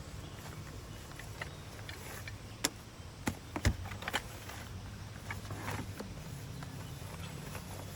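Car engine idling with a steady low hum, with several sharp clicks and knocks about a third to halfway through.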